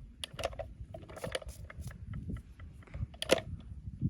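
Irregular light clicks and knocks, the loudest a sharp knock about three seconds in.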